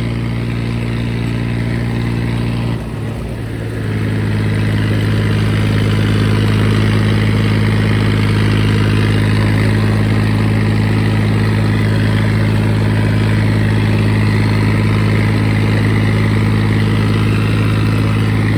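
John Deere 5039 tractor's three-cylinder diesel engine running steadily. About three seconds in, the sound briefly dips, then the engine runs louder and slightly lower in pitch.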